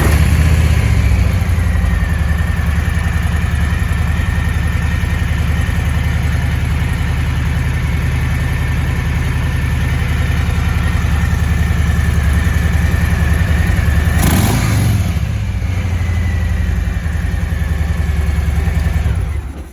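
2019 Harley-Davidson Breakout's Milwaukee-8 114 V-twin idling just after start-up, with one quick throttle blip about two-thirds of the way through, then switched off near the end.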